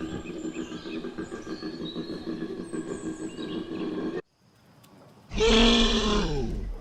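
Birds chirping high over a steady low hum, then after a sudden cut a loud, deep big-cat roar that falls in pitch, lasting about a second and a half near the end.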